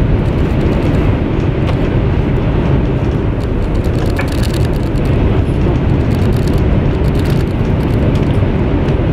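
Steady low rumble of a high-speed train running, heard from inside the passenger carriage, with a few light clicks on top.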